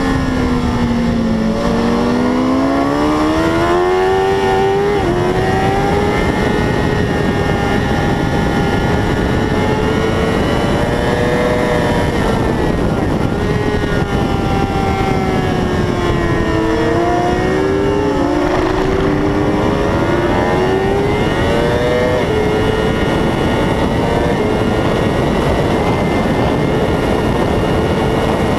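600 cc sport motorcycle engine heard on board, its pitch falling and climbing as it is throttled up and down, with several small sudden drops in pitch at the gear changes, over a steady rushing noise.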